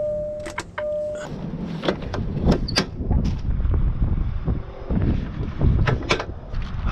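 Two short beeps at the start, then wind buffeting the microphone with a heavy rumble and scattered knocks and clicks of handling during a truck pre-trip inspection.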